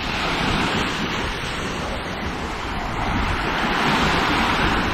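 Sea waves washing up onto a sandy beach, swelling twice, with wind buffeting the microphone.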